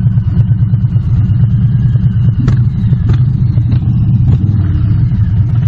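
Harley-Davidson Street Bob's Milwaukee-Eight 107 V-twin running through aftermarket Cobra exhausts at low speed, a loud, steady, pulsing low rumble.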